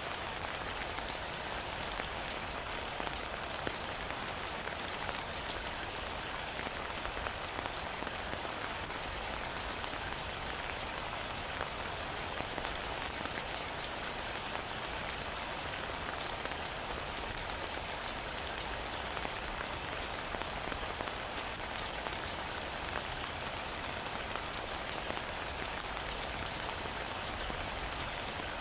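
Heavy rain falling steadily, with a constant hiss and scattered small drop ticks.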